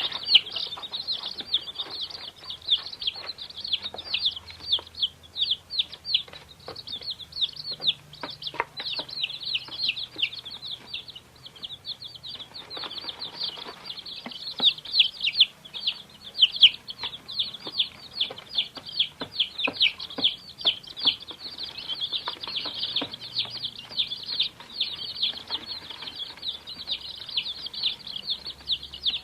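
A group of baby chicks peeping continuously: many short, high-pitched cheeps overlapping in a dense chorus, with a few soft taps mixed in.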